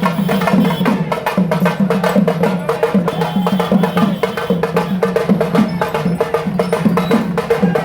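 Loud, continuous drumming with fast, sharp stick strokes in a steady driving rhythm.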